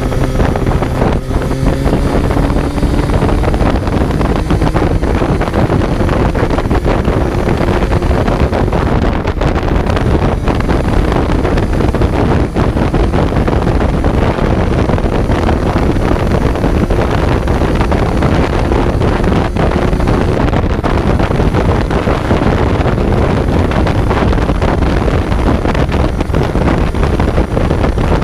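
Kawasaki Z900's inline-four engine pulling along at road speed, heard from on board under heavy wind noise on the microphone. The engine note rises slightly over the first few seconds, then is mostly buried in the wind.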